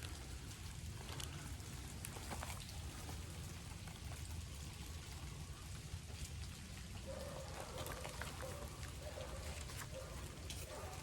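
Rain falling steadily, with scattered individual drops heard over it.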